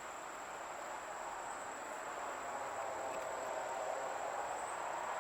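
Honeybees buzzing around an open hive, a soft, even hum with a thin, steady high-pitched tone over it.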